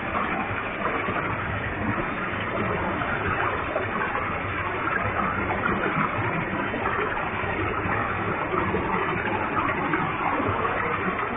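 Waterfall with a heavy flow of water, a steady even rush of falling water and spray.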